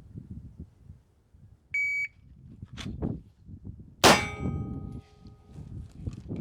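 Shot timer's start beep about two seconds in, followed about 2.25 seconds later by a single loud pistol shot that rings out and fades. This is a timed cold draw from the holster to the first shot.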